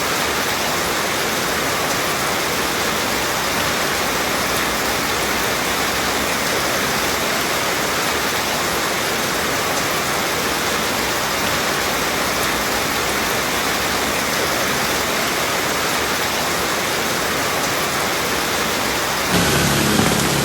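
Steady heavy rain: a dense, even hiss of drops falling. About a second before the end the sound changes abruptly, growing louder, with a low steady rumble underneath.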